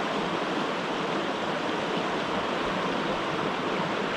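Steady rushing of a mountain stream's flowing water, an even wash of noise with no breaks.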